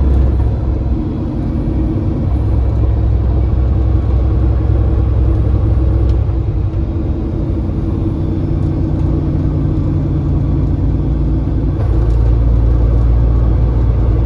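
Semi-truck's diesel engine running on the road, a steady low rumble whose pitch steps a few times.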